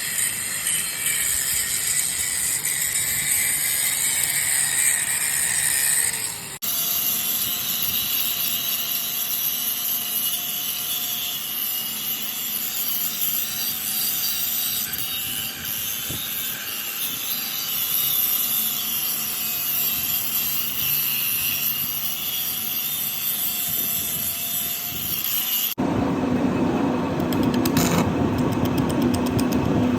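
Steady, harsh metalworking machine noise on a factory floor as steel is worked into a tractor hook. It changes abruptly twice, about six and a half seconds in and again near the end, where it becomes a louder, lower clatter with sharp knocks.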